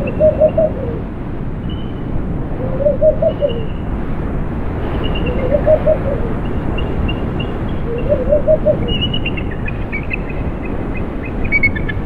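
A bird's low hooting call of three or four quick notes, repeated about every two and a half seconds, over a steady rush of wind, with thin high chirps above it.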